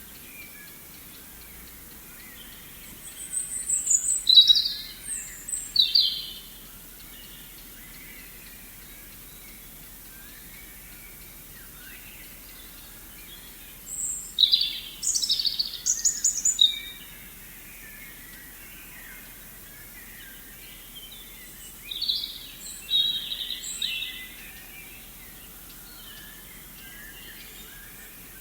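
Forest ambience: a steady background hiss with songbirds chirping, three louder bouts of high, quick song phrases about 3, 14 and 22 seconds in, and fainter calls between.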